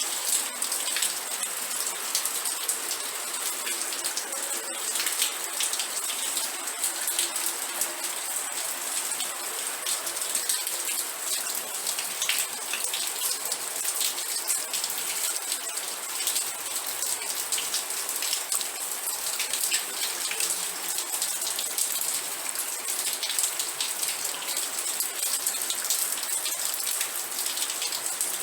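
Steady rain with dense, crackly drop patter falling on a surface.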